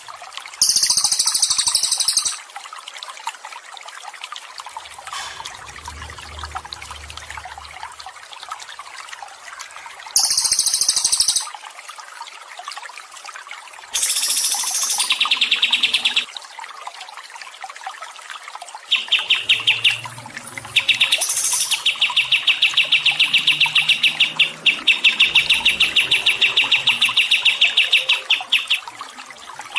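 Songbird calls over softly trickling water: short shrill bursts of chirping, then a long, rapid, fast-repeating trill for most of the second half.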